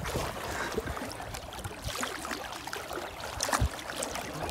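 Shallow sea water washing and splashing around a wader's legs, with a louder splash about three and a half seconds in.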